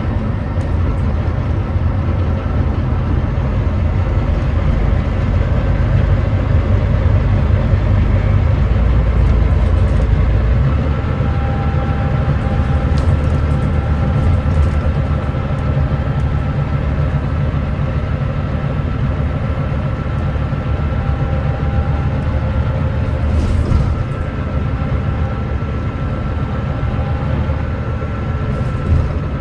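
Volvo B9TL bus's Volvo D9B diesel engine working hard up a hill, heard from on board, with the ZF Ecolife automatic gearbox changing down a gear about ten seconds in. The uploader describes the engine as misfiring and thrashing.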